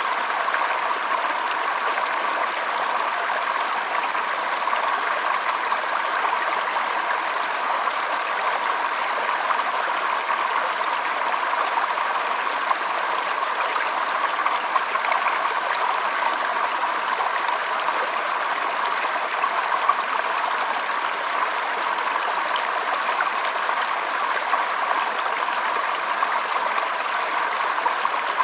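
Shallow stream flowing and trickling over stones in a steady, even babble of water.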